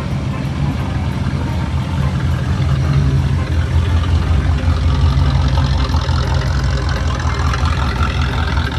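A car engine idling close by, a steady low sound that grows louder about two seconds in.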